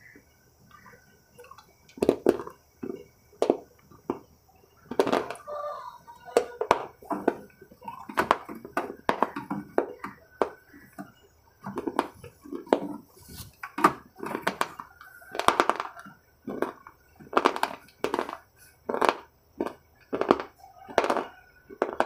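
Close-miked chewing of a red triangle-shaped sweet: a series of short, sharp crunching and mouth sounds, one or two a second, uneven in spacing.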